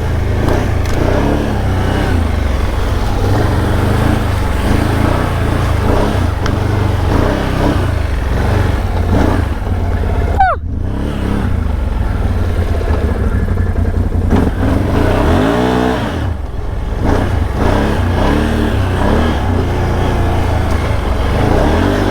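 Four-wheeler (ATV) engine running while it is ridden, the revs rising and falling, over a heavy low rumble. About ten seconds in, a quick whine falls sharply in pitch.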